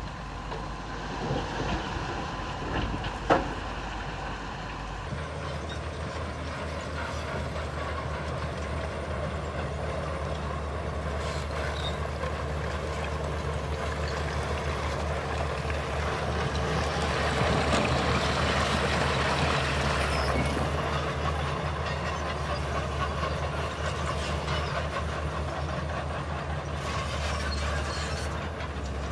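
Heavy diesel earthmoving machinery working steadily, with one sharp click about three seconds in and a louder stretch past the middle.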